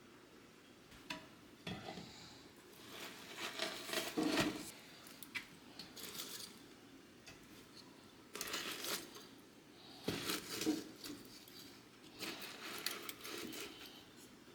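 Clinks, clatters and light knocks of objects being handled, coming in several separate bursts over a faint background.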